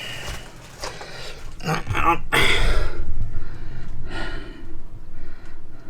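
A man breathing heavily and gasping close to the microphone: a few short, breathy exhalations, the loudest about two and a half seconds in.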